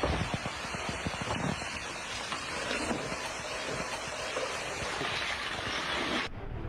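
A rushing, noisy outdoor roar with irregular low thumps, cut off suddenly near the end.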